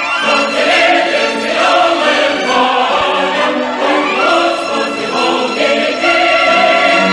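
Choral music: a choir singing slow, sustained notes that change every second or so.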